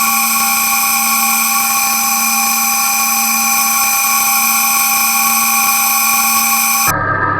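An electric power tool or machine running at steady speed with a constant whine, cutting off abruptly near the end.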